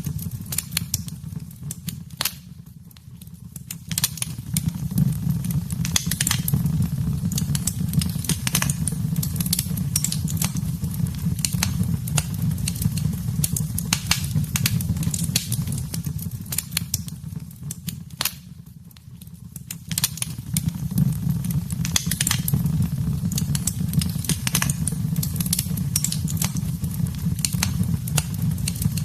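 Wood fire in a fireplace crackling, with many sharp pops and snaps over a steady low rumble of flames. The rumble fades briefly twice, about three seconds in and again about two-thirds of the way through.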